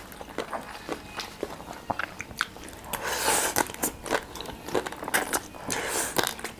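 A person chewing and biting food close to the microphone, with many small wet mouth clicks and two longer crunchy stretches, one about three seconds in and one near the end.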